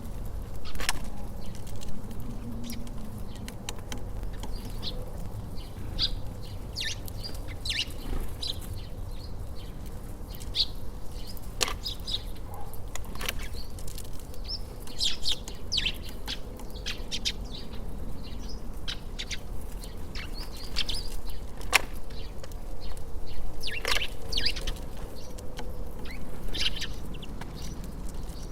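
Small birds chirping and twittering around a bird feeder in many short, high calls, with a few sharp knocks among them. A steady low outdoor rumble runs underneath.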